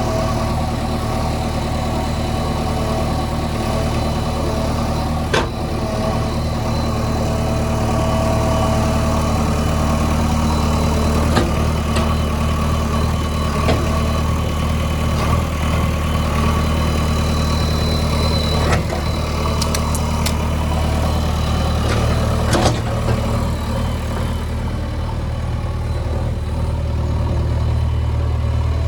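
JCB 3DX backhoe loader's diesel engine running steadily, with a few brief sharp knocks over it.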